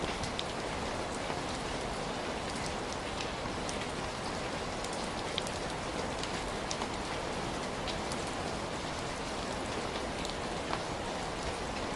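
Heavy rain falling steadily, a dense even hiss with scattered sharper drop hits on a surface.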